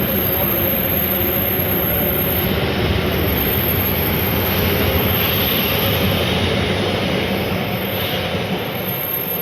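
A train running: a loud, steady rush of noise that eases a little toward the end.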